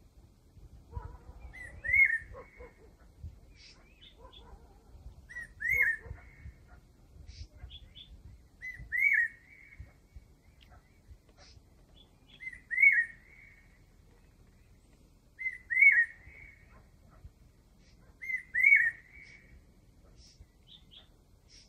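A cuckoo repeating a short whistled call of a few arched notes about every three to four seconds, with fainter chirps from other birds in between.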